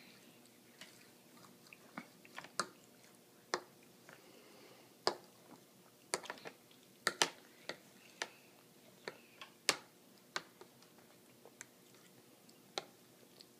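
A drowsy toddler chewing slowly, making sharp, irregular mouth smacks and clicks, unevenly spaced with pauses between them.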